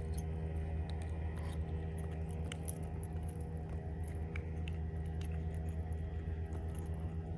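Boat motor running with a steady hum, with scattered light metallic clicks and jingles over it.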